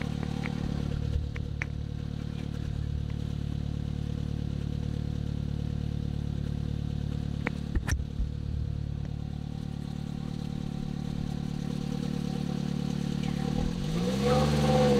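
Car engine running steadily, heard from inside the car, with a sharp click about halfway through. Near the end the engine's pitch rises and then falls as it is given some gas.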